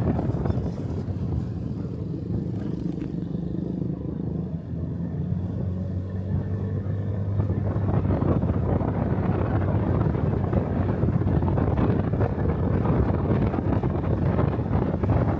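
Motorcycle engine running steadily, with wind buffeting the microphone. The wind rush grows louder about halfway through.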